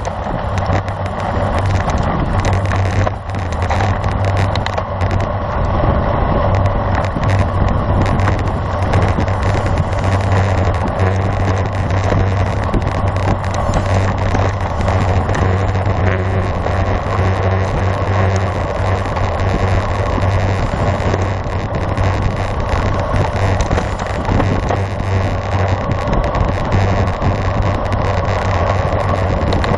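Steady wind rush and road noise on the microphone of a camera carried on a road bike moving at speed, with a constant low hum.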